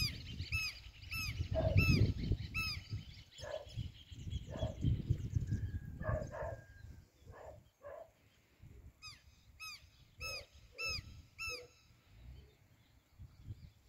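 A bird's harsh, high calls repeated about twice a second in two runs of about five, with sheep bleating now and then between them. Wind rumbles on the microphone for the first few seconds.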